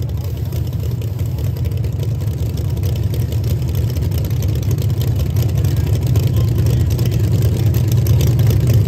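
Two drag cars' engines, a Chevrolet Nova among them, idling at the starting line: a loud, steady low rumble that grows slightly louder toward the end.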